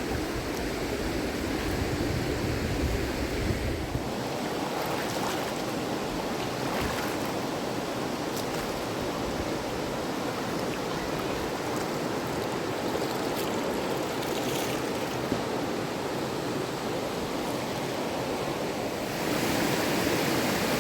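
River water rushing steadily. There is a low rumble for the first few seconds, and the rush gets louder about nineteen seconds in.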